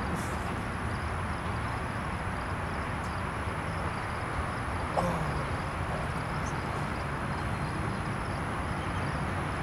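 Freight train of covered hopper cars rolling by, a steady rumble of wheels on the rails, with one short falling squeak about halfway through.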